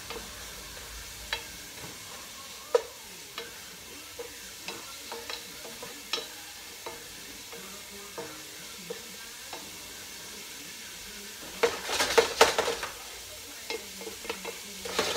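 Chopped onions and garlic sizzling in oil in a pot, stirred with a wooden spoon that knocks and scrapes against the pot every second or so. Near the end comes a burst of louder clattering against the pot.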